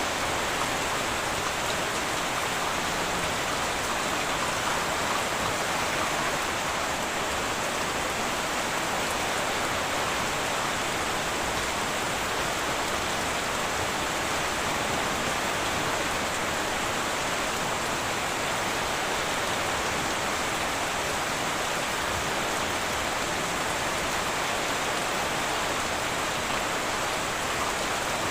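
Heavy rain drumming steadily on a tin roof, an even unbroken hiss.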